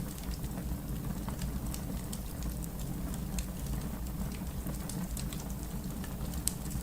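Fire crackling: a steady low rumble of flames with scattered sharp pops and snaps, one louder pop near the end.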